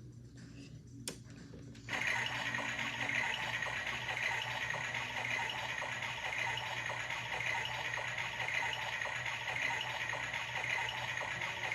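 Washmatic toy washing machine starting its wash cycle: after a faint low hum and a single click, a steady rushing of water and a small motor starts suddenly about two seconds in and runs on evenly.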